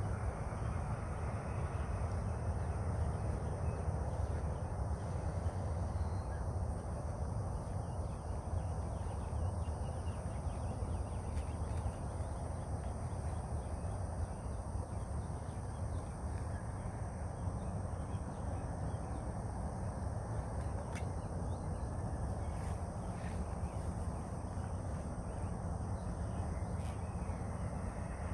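Open-air morning ambience: a steady low rumble with occasional faint bird calls over it.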